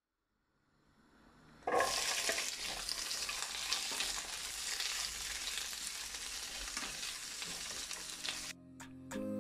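Chopped bell peppers and onion hitting hot oil in a wok: a sudden loud sizzle just under two seconds in, then steady frying sizzle as they are stirred with a spatula. The sizzle cuts off near the end, and plucked guitar music begins.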